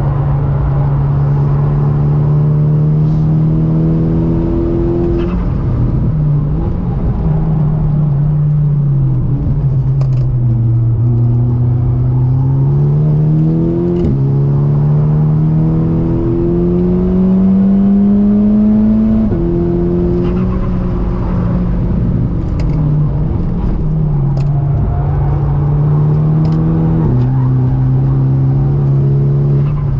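Volkswagen Golf R (Mk6) turbocharged four-cylinder engine heard from inside the car, pulling hard through the gears. Its note climbs and drops back at several gear changes, and sags in between when it comes off the throttle.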